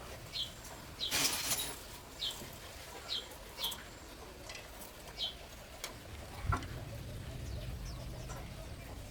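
A bird giving short, falling high chirps, about half a dozen at irregular intervals. A brief rustle sounds about a second in, and a single thump at about six and a half seconds is followed by a low, steady rumble.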